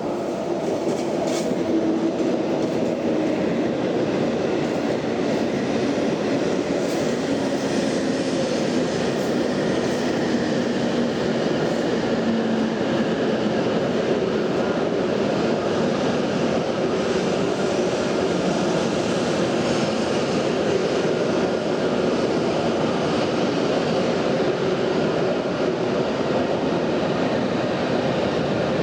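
Shinkansen train running along a station platform, a steady rail and motor noise that swells over the first two seconds and then holds level.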